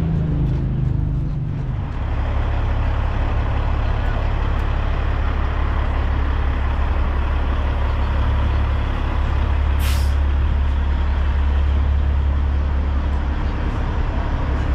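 Diesel semi-truck engine idling close by, a steady low rumble that settles in about two seconds in. About ten seconds in, a short, sharp air hiss from the truck's air brake system cuts through.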